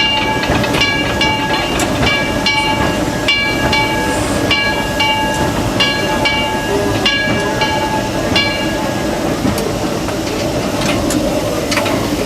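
1925 Baldwin steam locomotive Ernest S. Marsh running along the track, heard from its cab, with steady rumble and hiss. Over it a short ringing tone repeats about twice a second, then stops about two-thirds of the way through.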